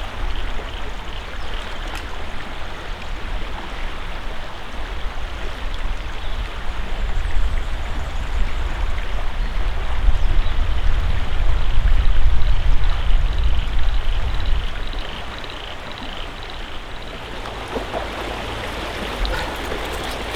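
Creek water flowing with a steady rush, under a low rumble that swells in the middle and eases after about fifteen seconds.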